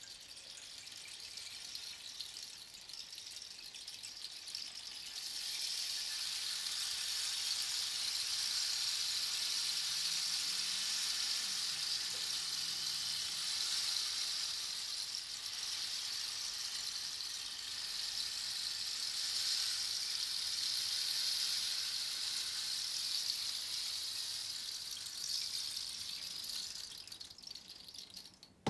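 Rain stick tipped slowly, its filling trickling down inside the tube in a steady rain-like patter. The patter builds over the first few seconds, holds, and dies away near the end as the fall runs out.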